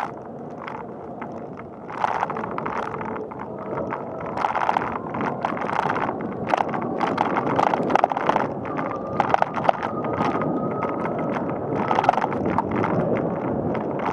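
Bicycle rolling along a paved path: steady tyre and road noise with frequent small rattles and knocks from the bike, and wind on the microphone.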